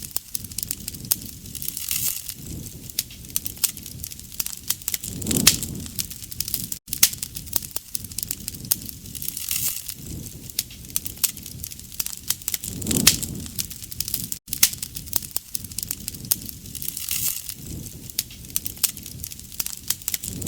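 Wood campfire crackling: dense snaps and pops, with a low rush of flame swelling about every four seconds.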